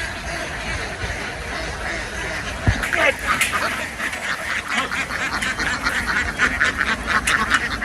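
A flock of domestic ducks quacking, many calls overlapping, growing dense about three seconds in just after a single thump.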